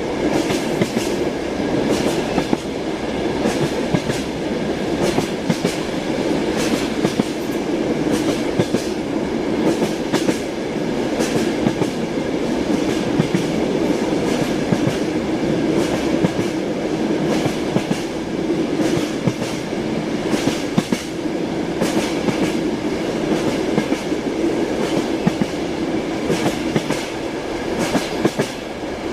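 Passenger train running, heard from inside a compartment car: a steady rumble with the wheels clicking over rail joints again and again.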